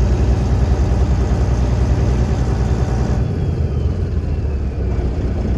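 Freightliner semi truck's diesel engine running steadily as it drives, heard from inside the cab as a low rumble. About three seconds in the higher hiss drops away and a faint falling whine follows.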